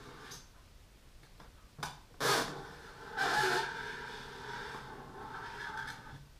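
Fingernails scratching and rubbing across a rubber balloon: a short scrape about two seconds in, then a longer squeaky rub that fades away.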